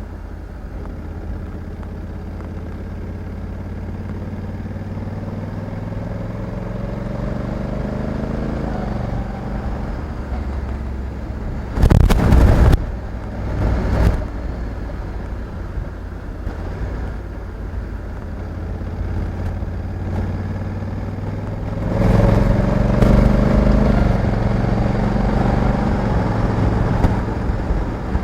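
Honda Africa Twin 1100 DCT's parallel-twin engine under way, its pitch rising steadily for about nine seconds then dropping back, and pulling harder again from about twenty-two seconds in. Two short loud rushing bursts cut in about twelve and fourteen seconds in.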